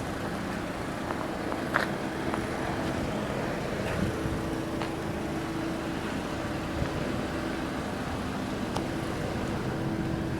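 A 2007 Volkswagen City Golf's 2.0-litre four-cylinder engine idling steadily. It runs louder than normal from an exhaust leak under the car, as the owner sees it. A few faint clicks show over the idle.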